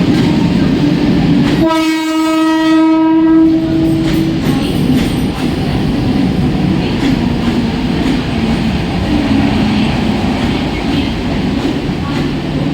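Mumbai suburban local electric train running along the platform, its wheels rumbling on the rails, with one horn blast about two seconds in that lasts a little over two seconds.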